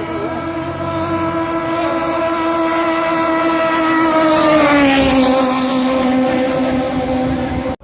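A high-revving racing boat engine passing close by, its steady whining note dropping in pitch about four to five seconds in as it goes past, then running on at the lower pitch.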